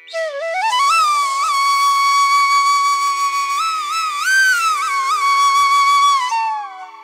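Music: a flute melody over a steady drone. It slides up into a long held note, bends and ornaments it in the middle, and falls away near the end.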